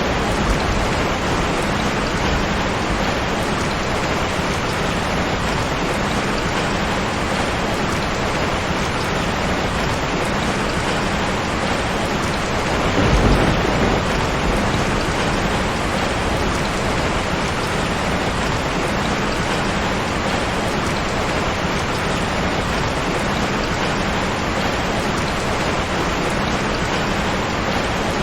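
Steady heavy rain falling, with a low rumble of thunder swelling briefly about halfway through.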